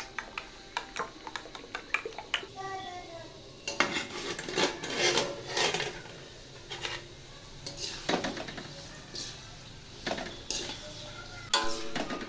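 Kitchen utensils clinking and scraping against pots and dishes during home cooking, a run of irregular knocks and clatters that is densest about four to six seconds in and again near the end.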